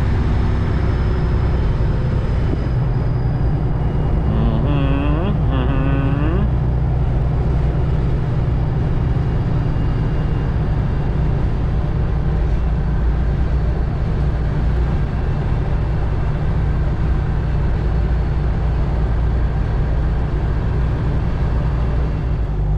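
Straight-piped Detroit diesel of a Freightliner Classic XL running steadily at highway speed, heard from inside the cab as a continuous low rumble. A brief wavering, voice-like sound comes in about four seconds in and lasts a couple of seconds.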